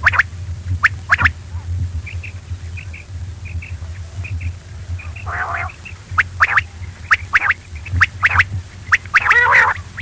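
Quail calling: short, sharp call notes repeated at irregular intervals, with a few fuller calls about halfway through and near the end, over a steady low hum.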